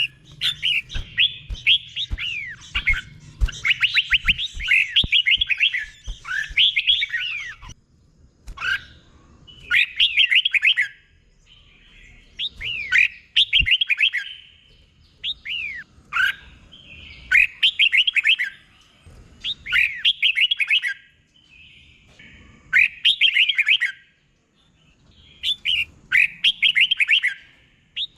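Red-whiskered bulbul singing in the 'double' style prized by Thai bulbul keepers. It sings a continuous run of bright, quick whistled notes at first, then short one-to-two-second phrases repeated every few seconds.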